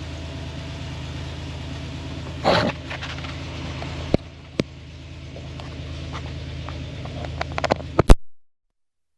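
A microphone jack being plugged into a GoPro Hero 9's media mount: rustling handling noise, a few separate clicks, then a quick run of sharp clicks and a loud crackle before the audio cuts out to dead silence. A steady low hum runs underneath until the cut.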